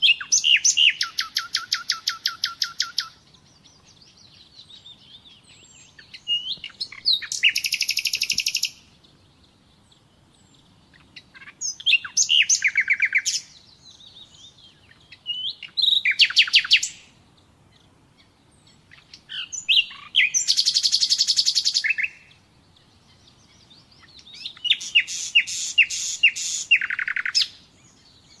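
Nightingale singing: six phrases of rapid repeated notes, each lasting about one and a half to three seconds, with short pauses between them.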